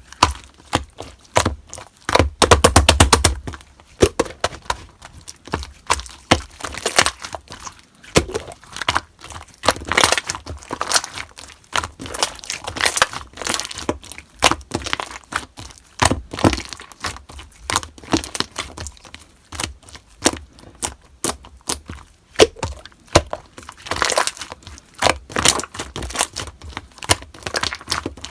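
Slime being pressed and stretched by hand, giving many sharp, irregular crackling pops and clicks. About two seconds in, there is a fast run of clicks lasting a second or so.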